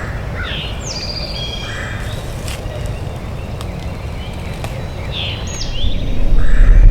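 Wild songbirds singing: one bird repeats the same falling whistle that breaks into a trill, and other birds add short notes. A steady low rumble on the microphone underlies it and swells much louder near the end.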